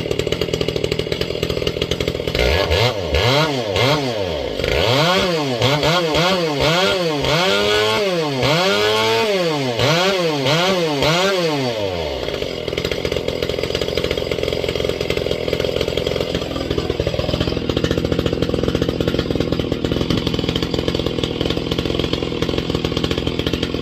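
Ported Echo CS-670 two-stroke chainsaw running steadily. A couple of seconds in, it is revved up and down about nine times, roughly once a second, then settles back to a steady idle for the second half.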